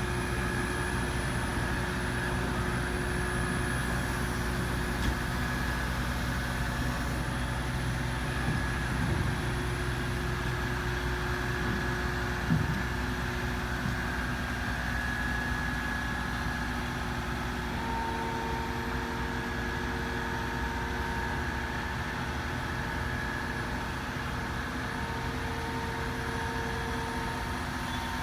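Cat 657G wheel tractor scraper's diesel engine running steadily. A short knock comes about twelve seconds in, and a higher steady tone joins about two-thirds of the way through.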